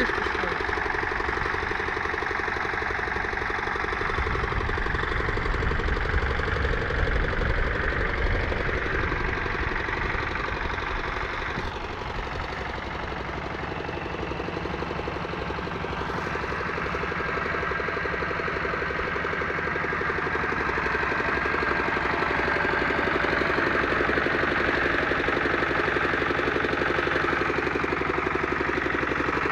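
Pasquali tractor's engine running steadily, dipping slightly in loudness about twelve seconds in and slowly building again.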